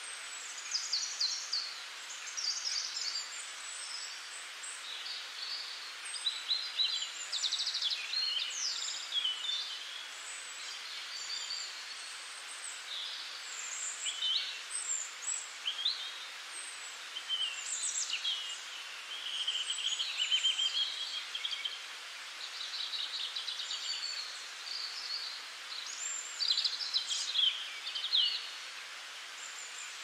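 Several small birds chirping and singing over a steady background hiss, like a nature-ambience recording. There are many short rising and falling high calls, some in quick trills, one after another throughout.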